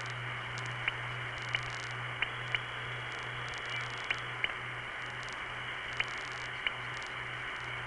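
Telephone line hiss and hum on a long-distance call, broken by soft little ticks, often in close pairs, that mark the beginning and end of each digit being dial-pulsed out. The ticks echo back from the Virgin Islands with a delay over a satellite circuit, while the dial pulsing itself is not heard.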